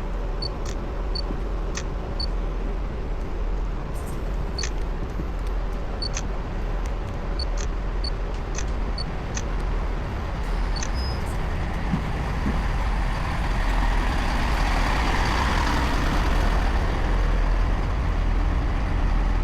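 Train noise at a railway station: a steady low rumble that grows louder from about two-thirds of the way through, with scattered short high clicks.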